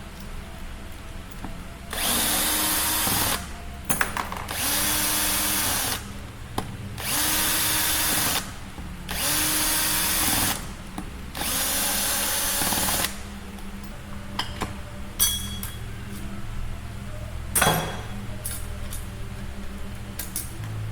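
A power drill/driver runs in five short bursts of about a second and a half each, its motor speeding up and winding down each time as bolts are run out of the BMW S1000RR engine. After that come scattered light clicks and clinks of parts being handled, with one sharp knock.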